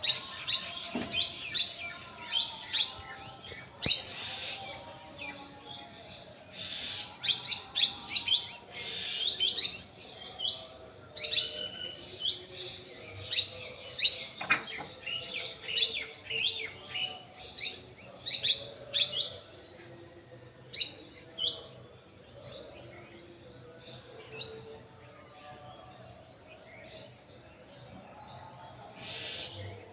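Small birds chirping, many quick high chirps overlapping in a busy chorus that thins out to scattered chirps after about twenty seconds.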